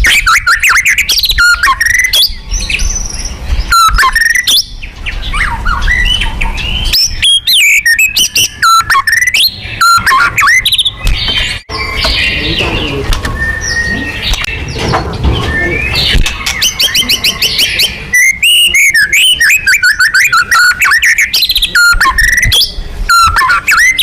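White-rumped shama singing loudly: a fast, varied run of clear whistles, rising and falling slurs, and rapid trills, with short pauses between phrases.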